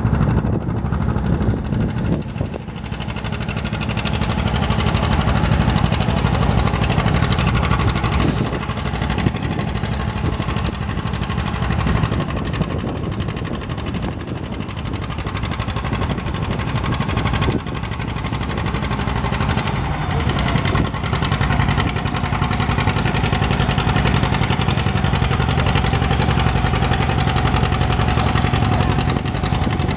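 Antique farm tractor engine running steadily and loudly, its sound shifting a few times.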